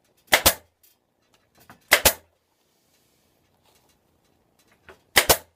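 Staple gun firing staples through the vinyl into the motorcycle seat base, three shots each heard as a sharp double click, about two and then three seconds apart.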